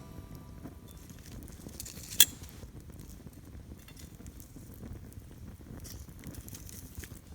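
Wood campfire crackling softly with scattered small pops, and one sharp, loud snap about two seconds in.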